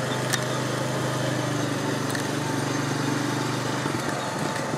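Quad (ATV) engine running steadily as it rides along, a low even hum, with one sharp click near the start.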